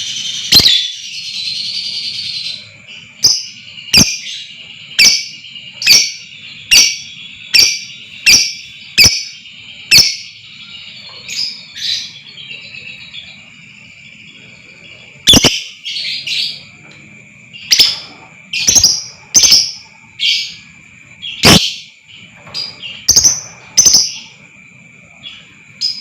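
Lovebird calling: a fast chattering trill for about the first two and a half seconds, then a run of sharp single chirps about one a second, and after a short pause more sharp, irregular chirps. A steady high whine runs underneath.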